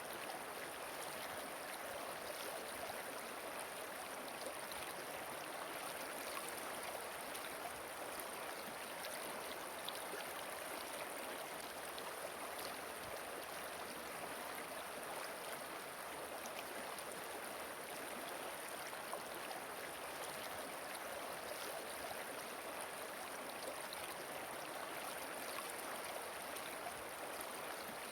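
Steady rush of flowing water, an even noise with no change in level.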